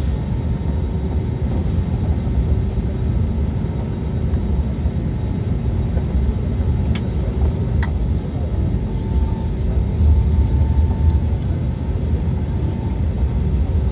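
Steady low rumble inside the cabin of an Airbus A320neo on the ground before take-off. Two short clicks come about halfway through.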